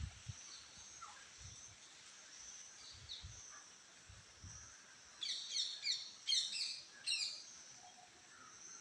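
A bird sings a quick run of down-sweeping chirps about five seconds in, the loudest sound, over a steady high-pitched insect drone. A few faint low thumps come and go.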